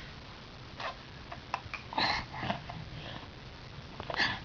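A toddler's short, breathy sounds: a few brief puffs and soft babbled noises spaced out over a few seconds, with the loudest just after two seconds in.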